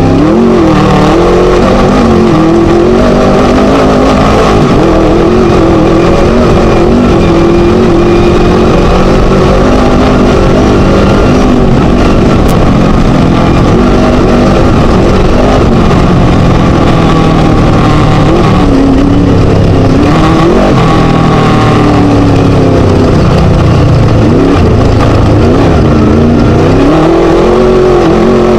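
Class 1 Chenowth DR2 desert race buggy's Scat engine running hard and very loud under a dense rush of noise. Its pitch rises and falls with the throttle, dipping sharply a couple of times in the last third and climbing back.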